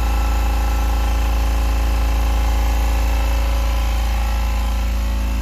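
Husky 4.5-gallon silent air compressor running steadily under load, pumping its tank past 140 psi toward its 175 psi automatic cut-off.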